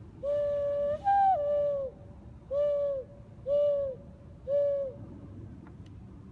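A person doing a hooting bird call: a long call, then one that jumps up in pitch and steps back down, then three shorter hoots about a second apart, each dropping in pitch at the end.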